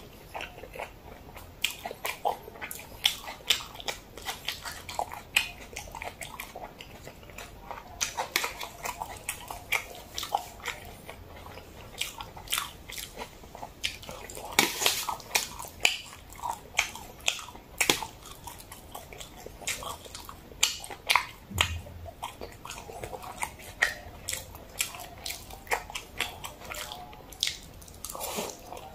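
Close-miked mouth sounds of a person eating jajangmyeon, black bean sauce noodles with diced vegetables: wet chewing with many sharp, irregular mouth clicks.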